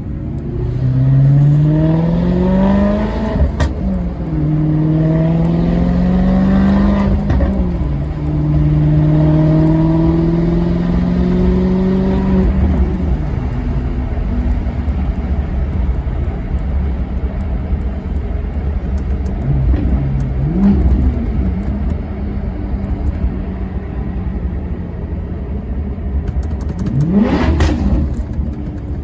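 Maserati Quattroporte Sport GT's V8 accelerating through three gears, its pitch climbing and then dropping at each upshift, before settling into a steady low rumble. Brief revs come about two-thirds of the way in, and a sharp rev rises and falls near the end.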